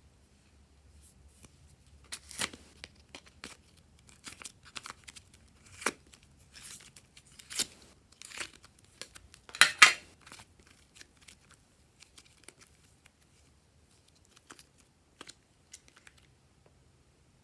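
Glossy slime being squeezed and stretched by hand, giving irregular sticky clicks and small air-bubble pops. They come thickest in the first ten seconds, loudest about ten seconds in, then thin out to a few scattered clicks.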